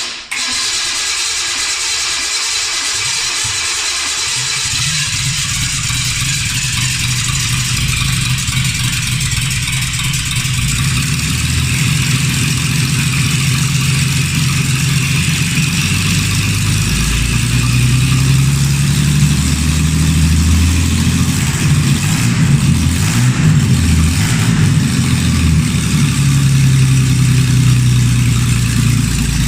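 Ford Essex 3.0-litre V6 engine at its first start-up after being built: it turns over for about four seconds, catches and runs, with engine speed rising and falling through the second half.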